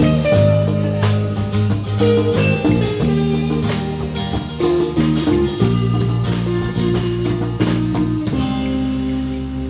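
Live blues band playing an instrumental passage with guitar, bass and drums. About eight seconds in, the band settles on a held chord that rings on.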